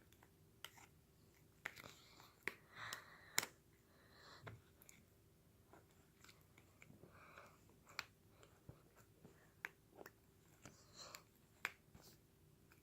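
Slime being worked with a spoon: faint sticky squelches and scattered sharp little clicks, the loudest about three and a half seconds in.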